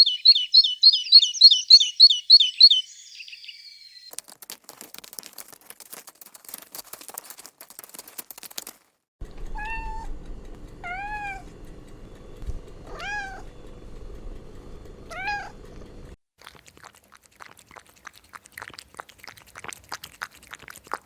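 A rapid run of about ten high, shrill calls, then scratchy clicking, then a cat meowing four times, each meow rising and falling, about two seconds apart, followed by more clicking.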